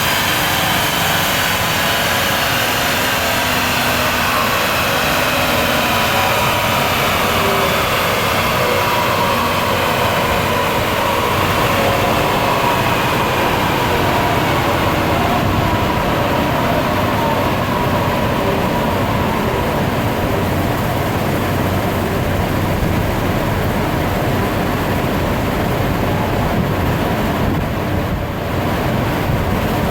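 VW Golf 6 GTD's 2.0 TDI diesel and drivetrain running loud and steady, with a whine that slowly falls in pitch over the first half.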